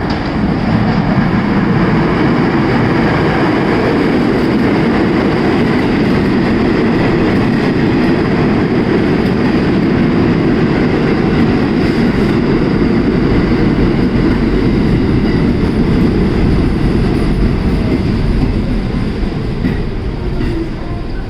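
R46 subway train pulling into an underground station, a loud steady rumble of wheels on rail that eases off near the end as the train slows.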